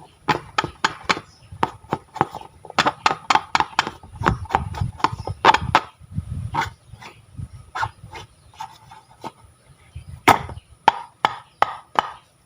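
Series of sharp taps and clicks, irregular, a few a second, with a short pause about two-thirds of the way through and a low rumble under the busiest stretch.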